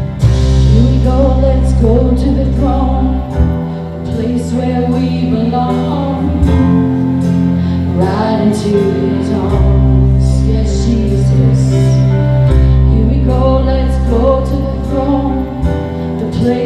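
Live church worship band playing with singers: long held bass notes that change every few seconds, guitar, and cymbal strikes under the sung melody.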